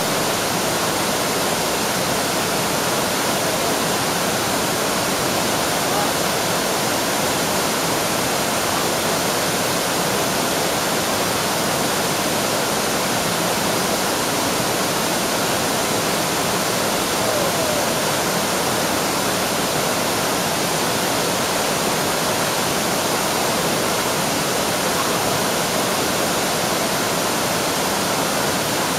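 Waterfall: a steady, unbroken rush of falling water, spread evenly from low to high pitch.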